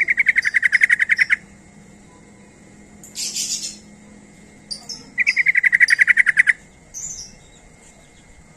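Yellow-vented bulbul (trucuk) calling: two rapid chattering trills of about ten notes a second, each lasting about a second and a half, the second about five seconds after the first. Between them come a short hissy note and a few brief high chips.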